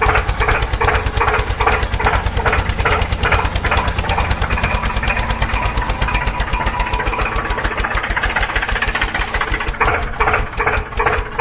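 Tractor engine running with a fast, steady chug and louder beats about three times a second. The beats ease off past the middle and come back near the end.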